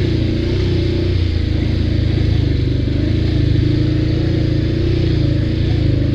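ATV engine running steadily under way, its pitch dipping slightly about a second in and then holding.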